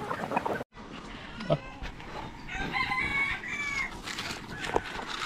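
A rooster crowing once, near the middle, with chickens clucking around it.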